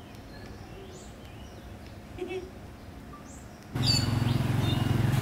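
Faint, scattered bird chirps over a quiet outdoor background. About three-quarters of the way through, a louder steady low hum cuts in suddenly.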